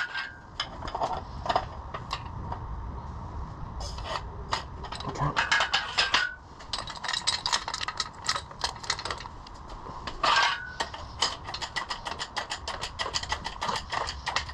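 Hand tools working on metal: a ratchet wrench clicking in quick runs, with a few louder metal clinks that ring briefly.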